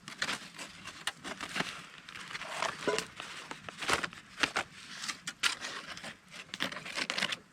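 Aluminium foil cooking packet being unwrapped and crinkled open: a run of irregular crackles and rustles.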